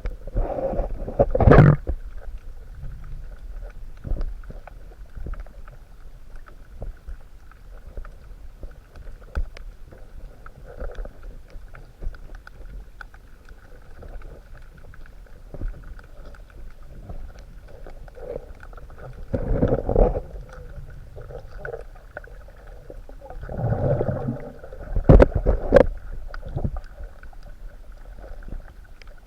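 Underwater sound picked up by a camera in the sea: a muffled low rumble of moving water with a faint steady hum, broken by a few louder knocks and swishes, one about a second and a half in, one around twenty seconds in and a cluster near twenty-five seconds.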